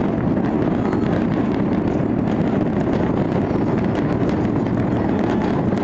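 Fireworks display going off without a break: a dense, steady rumble of bangs and crackles, with wind noise on a phone microphone.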